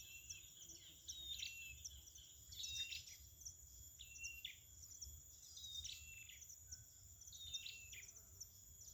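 Perenjak (prinia) birds giving short, sharp chirping calls in quick irregular runs, the agitated calling of a bird fighting at a decoy cage. A steady high insect drone sounds underneath.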